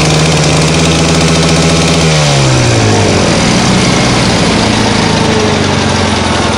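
DT-75 crawler tractor's diesel engine running cold after a cold start: held at higher revs, then its speed drops about two and a half seconds in and it settles into a lower, steady idle.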